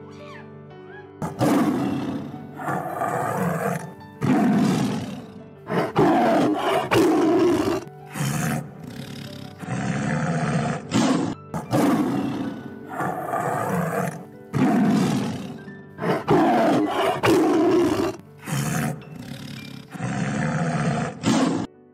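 A large animal roaring again and again, about a dozen loud calls of a second or two each with short breaks, over steady background music.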